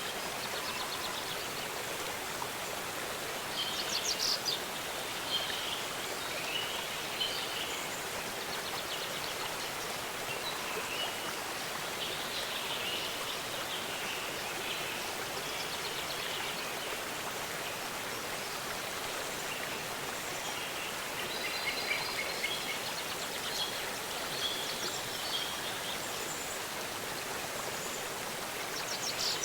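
Waterfall: a steady rush of falling water, with birds chirping and trilling throughout over it.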